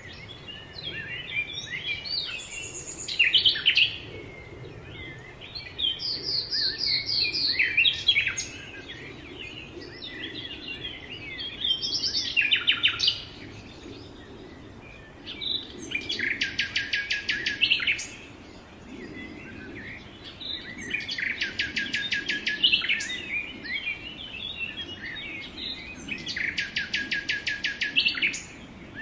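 Birds chirping: a mix of varied short calls, with a rapid two-second trill repeated about every five to six seconds in the second half.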